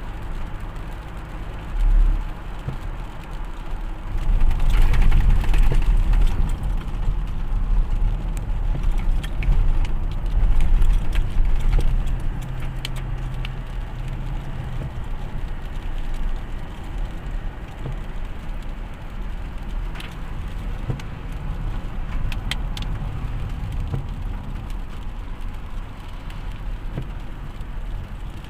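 Motor vehicle driving: a steady low engine and road rumble, louder for a stretch about four to eleven seconds in, with scattered small clicks and rattles.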